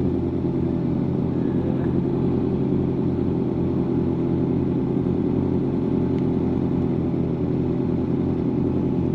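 Inline-four sport motorcycle engines idling steadily, with no revving.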